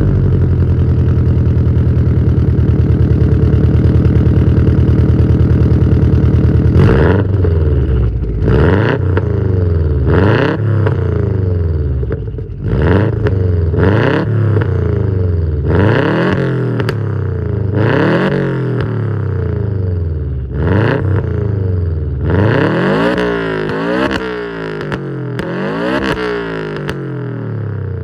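Subaru WRX STI (GDB) turbocharged flat-four boxer engine breathing through a Tomei Expreme Ti titanium exhaust: it idles steadily just after start-up, then about seven seconds in it is blipped again and again, each rev rising and falling in pitch, with several quick revs close together near the end.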